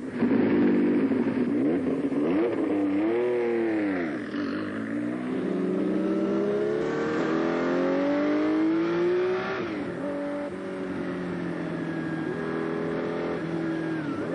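Porsche 956 race car's twin-turbo flat-six engine at speed. The pitch dips and climbs back a few seconds in, then rises steadily as the car accelerates, drops sharply at a gear change about ten seconds in, and holds steadier after that.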